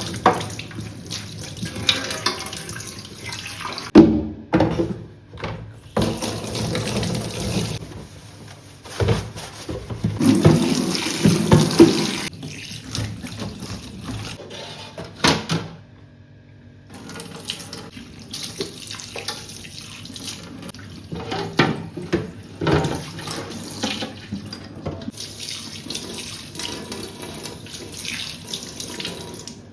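Kitchen tap running into a sink while things are rinsed, with knocks and clatter of items against the sink. The water cuts off and starts again several times.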